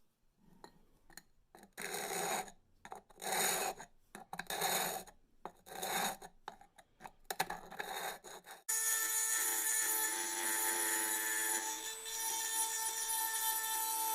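A hand file rasping across the broken ceramic edge of a mug handle in separate strokes, a little under a second each. About two-thirds of the way in, it gives way to the steady whine of a small rotary tool grinding the edge.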